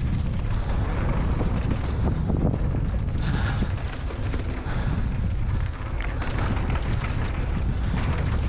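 Wind rumbling on the microphone of a bike-mounted or rider-worn camera while riding down a trail, with scattered clicks and knocks from the bike over the ground.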